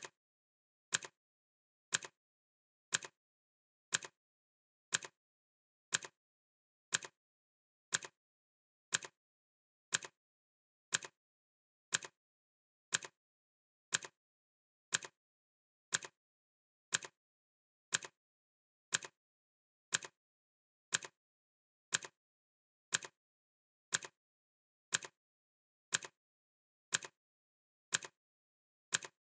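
Clock ticking steadily at one sharp tick per second, with silence between ticks.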